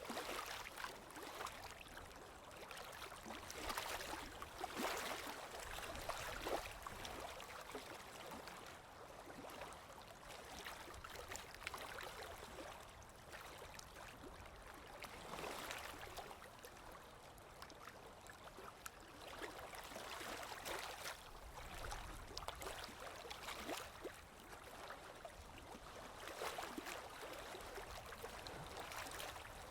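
Sea waves washing in, a rushing hiss that swells and eases every few seconds.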